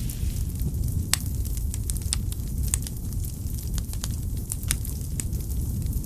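Firewood burning in a fireplace: a low steady rumble of flames with irregular sharp crackles and pops, one louder pop about a second in.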